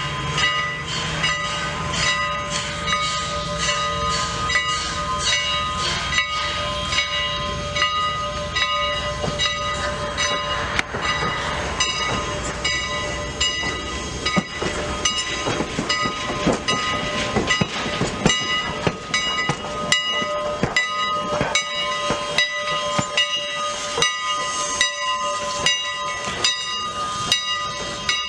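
Steam locomotive working with its train: steam hiss and a run of sharp beats and clicks over steady high ringing tones.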